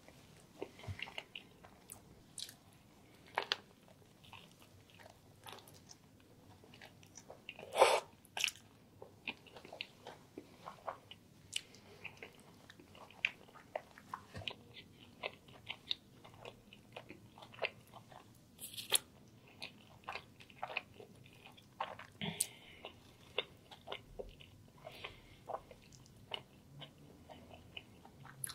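Close-miked chewing and biting of a toasted chicken and mushroom sandwich: a run of small wet mouth clicks and crisp bread crunches, with one louder crunch about a quarter of the way in.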